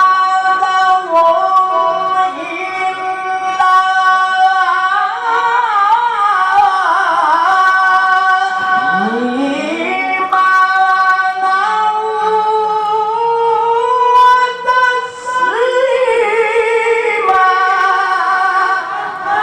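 A qari reciting the Quran in the melodic tilawah style, in a high voice. He holds long wavering notes, slides upward about nine seconds in, and holds a higher note from about sixteen seconds.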